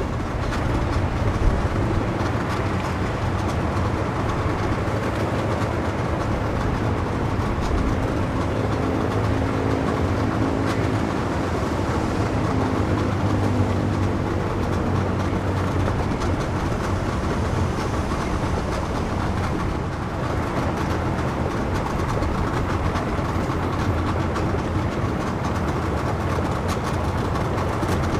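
Steady engine rumble, heaviest in the low end. A pitched engine hum joins it about eight seconds in and fades out again by about fourteen seconds.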